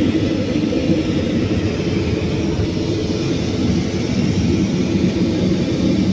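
Steady, even rumble of an airliner's engines and airflow heard inside the passenger cabin in flight.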